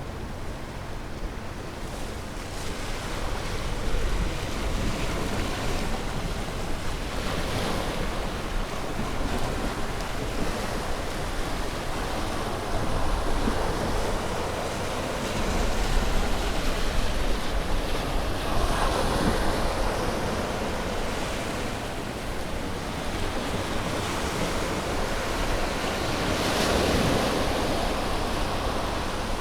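Ocean waves breaking and washing on a shore, a continuous surf hiss that swells every few seconds as each wave breaks, over a low rumble.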